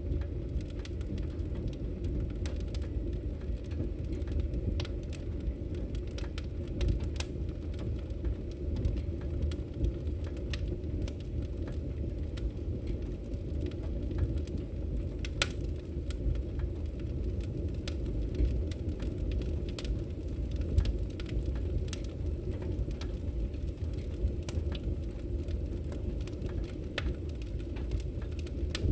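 Wood fire crackling in a fireplace: a steady low rumble with scattered, irregular sharp pops and snaps.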